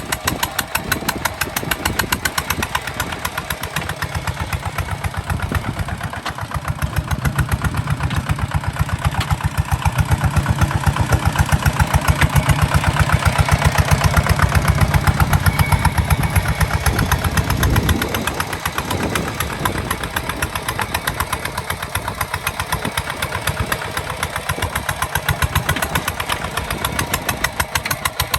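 Kubota ZT155 DI single-cylinder diesel engine of a walk-behind tractor running with fast, even firing beats. It runs louder and heavier from about a fifth of the way in until about two-thirds through, then drops back to a lighter run.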